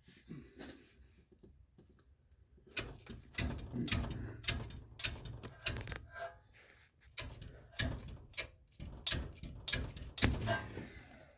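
Irregular knocks and clunks from handling a 2002 Toyota Tacoma's front suspension while checking the lower control arm, whose rear bushing is worn out. The knocks come close together from about three seconds in and stop near the end.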